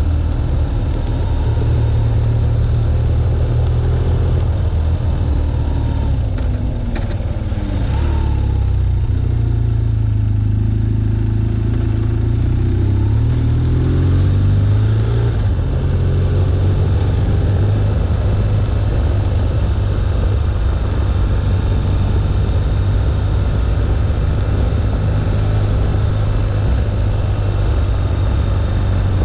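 BMW R1200GS's air/oil-cooled boxer twin engine running under way. The revs drop about a quarter of the way in as the bike slows, climb again a little before halfway as it pulls away, then hold steady.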